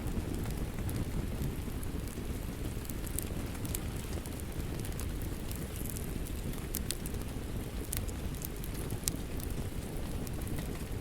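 Steady rain mixed with a crackling wood fire: an even rushing noise with sharp little pops and snaps scattered irregularly throughout.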